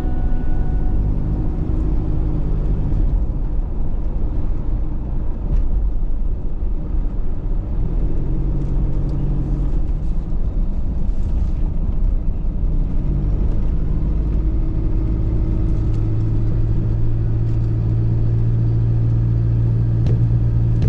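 Motor vehicle driving along the road: a steady low rumble of engine and road noise, with the engine hum shifting pitch a few times before holding steady in the second half.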